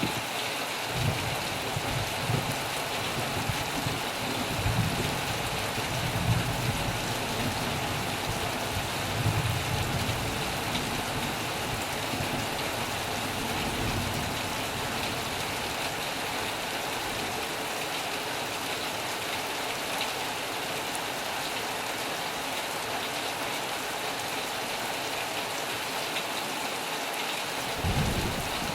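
Heavy rain drumming steadily on a metal roof, a dense even hiss, with low uneven rumbles underneath through the first half and again briefly near the end.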